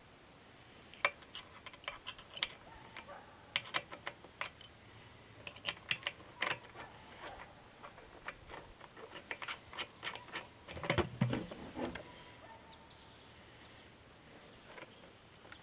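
Irregular small clicks and taps of hand work with small hardware such as bolts, nuts and brackets being handled and fitted, with a denser clatter about eleven seconds in.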